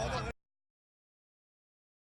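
Digital silence after an abrupt cut: a louder sound with a low rumble stops dead about a third of a second in.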